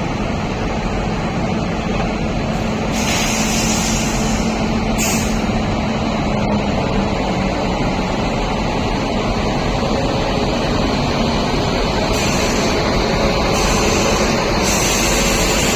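Passenger train rumbling steadily at the station platform. Bursts of air-brake hiss come a few seconds in, again shortly after, and several times near the end.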